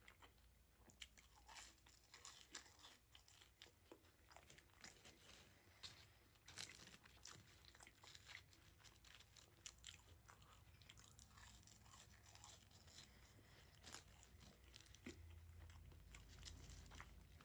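A person chewing crunchy food close to the microphone: faint, irregular crisp crunches and mouth sounds throughout.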